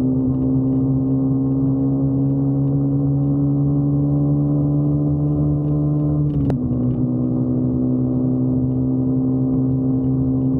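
Motorcycle engine running at road speed, its pitch rising slowly as it accelerates, then dropping suddenly with a click about six seconds in as it shifts up a gear, and holding steady after.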